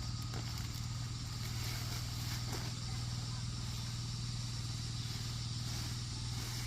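A small engine running steadily at a constant speed, with a steady hiss above it.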